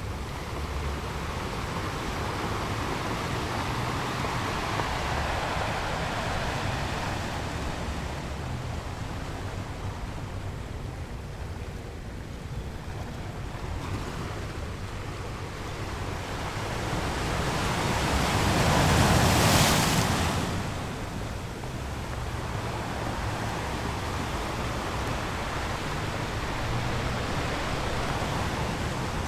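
Sea waves washing against a rocky shore in a steady wash, with one larger wave building and breaking loudly about two-thirds of the way through.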